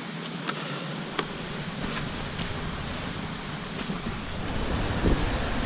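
Steady rushing of river water with a few light clicks, and a low rumble of wind on the microphone building near the end.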